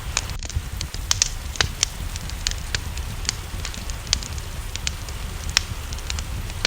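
Wood fire crackling, with frequent irregular sharp pops and snaps over a steady low rumble. Rain hisses in the background.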